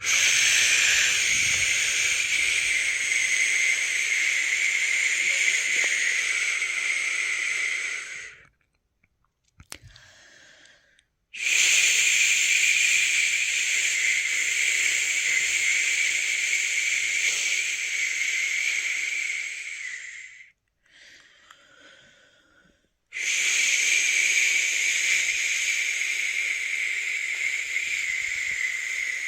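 A person's long 'shh' shushing, the soothing sound of the shush-pat method used to lull a newborn to sleep. Three long shushes of about eight to nine seconds each, with short quiet gaps between them.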